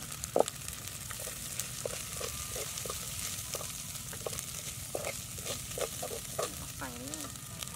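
Food sizzling in a metal pot on a charcoal stove while a metal spoon stirs it, with frequent short scrapes and clinks against the pot. A louder knock about half a second in.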